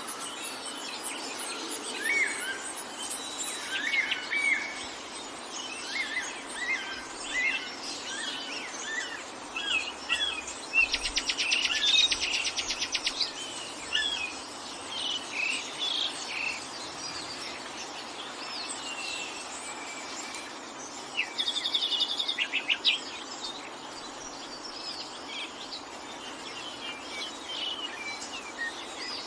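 A chorus of forest songbirds chirping and whistling in many short, varied notes, over a steady background hiss. Twice, about eleven and twenty-one seconds in, a bird gives a fast rattling trill, the loudest sounds here.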